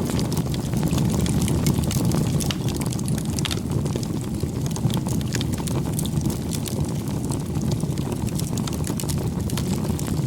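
Campfire burning: a steady low rush from the flames, with frequent, irregular sharp crackles and pops from the burning wood.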